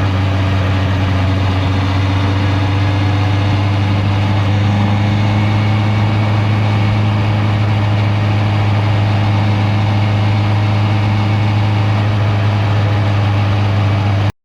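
Honda CB650R's inline-four engine running steadily with a constant low hum, cutting off abruptly just before the end.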